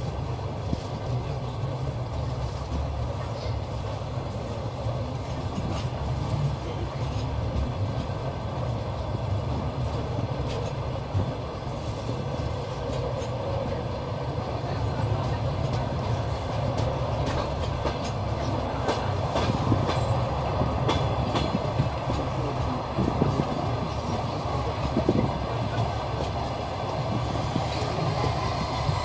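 Train running along the track: a steady rumble of wheels on rails with sharp clacks over the rail joints. It grows louder and busier about halfway through.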